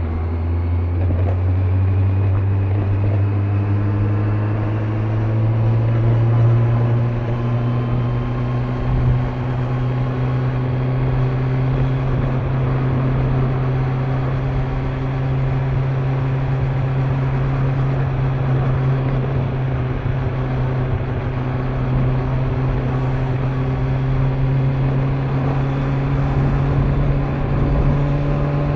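Kawasaki Z900's inline-four engine on its stock exhaust, pulling under way: its pitch climbs gradually over the first several seconds, then holds at a steady cruise and edges up slightly near the end. Wind and tyre noise run underneath.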